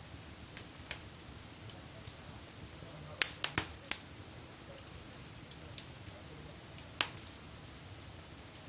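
Wood fire crackling in a fireplace: scattered sharp pops, a quick cluster of louder ones about three seconds in and another loud pop around seven seconds.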